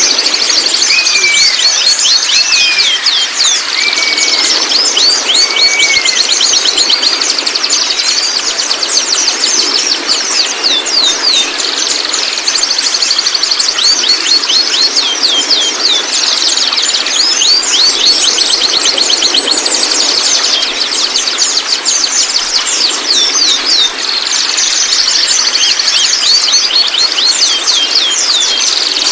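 White-rumped shamas calling: dense, continuous series of rapid high notes that each drop sharply in pitch, with a few lower slurred whistles in the first six seconds. Played as a lure to make young shamas start singing.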